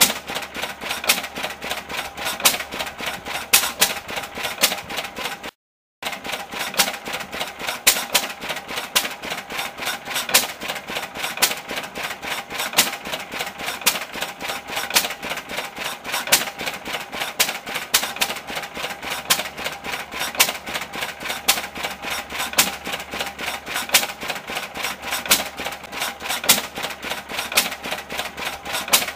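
1924 Lister L type single-cylinder stationary engine running, a rapid, even clatter of clicks and knocks with a regular beat. The sound drops out completely for a moment about five and a half seconds in.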